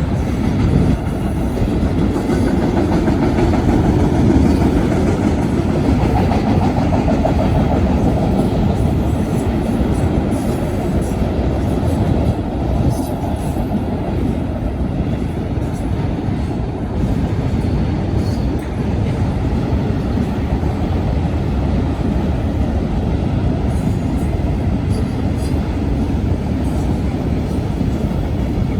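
Union Pacific manifest freight train passing at steady speed: a continuous heavy rumble of rolling wheels, with faint scattered clicks on top.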